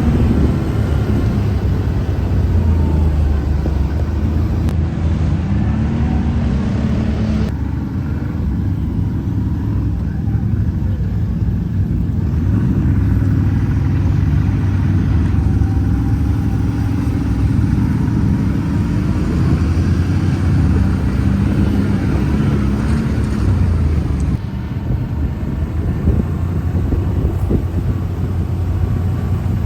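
An off-road ATV engine running under way, its pitch rising and falling with the throttle. The engine noise is loud and continuous, and its character changes abruptly twice.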